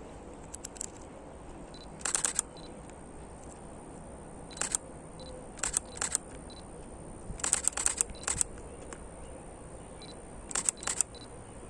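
Canon EOS M50 Mark II camera shutter firing in short bursts of quick clicks and a few single shots, with the longest burst a little past the middle.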